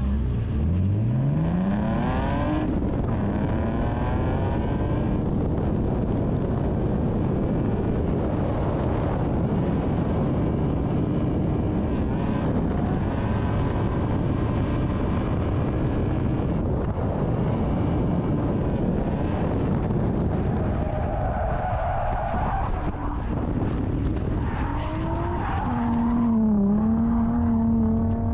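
Drift car at speed: the engine revs climb in pitch over the first few seconds, then it runs hard in a steady wash of engine and tire noise. Near the end a wavering engine note takes over.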